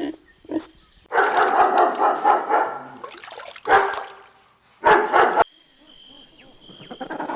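A dog barking: a quick run of barks, then two single sharp barks. About five and a half seconds in it gives way to a fainter, different animal recording.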